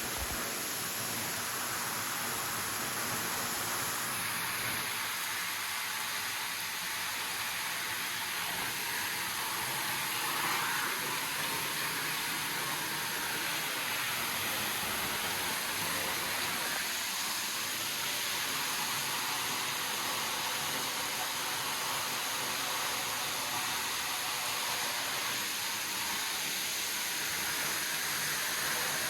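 Steady rush of falling water from a waterfall, an even hiss that holds at one level throughout.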